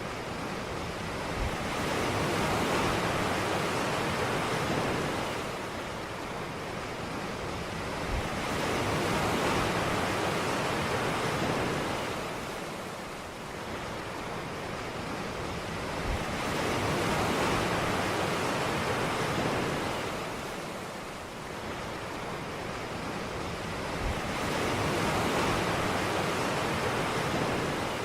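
Ocean waves breaking on a beach, the surf swelling and falling back in a slow rhythm about every seven to eight seconds, four times over.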